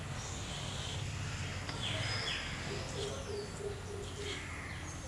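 Birds chirping: short high calls and quick sliding notes every second or so, over a low steady hum.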